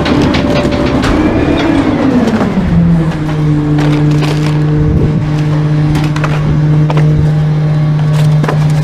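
Trash truck's engine and machinery running loud and steady; the pitch falls about two seconds in and then holds level, with scattered knocks and cracks.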